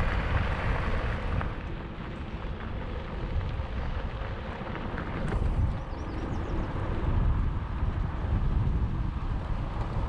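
Wind buffeting the microphone on a moving gravel bike, over the steady rumble of its tyres rolling on a gravel trail. A few faint high chirps come about halfway through.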